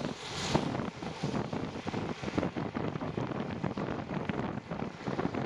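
Wind buffeting the microphone during a bicycle ride on a wet road: an uneven rushing noise with short gusts.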